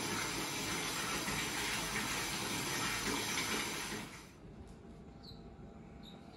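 Steady rushing ambient noise that cuts out about two-thirds of the way through, leaving a quiet background with faint, short high chirps about once a second.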